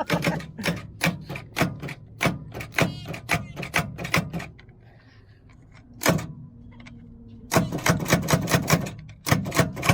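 Rapid run of sharp clicks or knocks, about three to four a second. It stops for a couple of seconds, with one strike in the gap, then starts again near the end.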